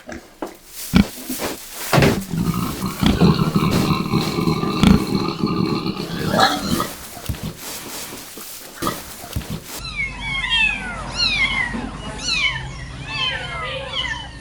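Farm animal sounds: a few knocks, then a low, drawn-out animal call until about halfway. After that come many short, high, falling peeps, several a second, like chicks cheeping.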